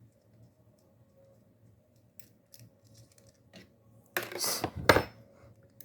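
Small metal parts of a rusted spinning fishing reel being handled during disassembly. Faint scattered clicks are followed, about four seconds in, by a short burst of loud metallic clinking and rattling.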